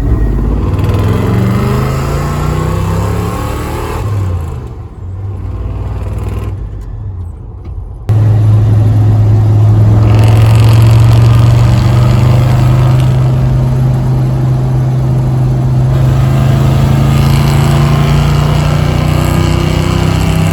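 Pickup truck engine running with revs rising and falling, first with no sensor fault named and then, from about 8 seconds in, a louder steady drone that slowly rises in pitch. In the first part the engine is a 1992 Chevy throttle-body-injected engine running rich on a broken coolant temperature sensor.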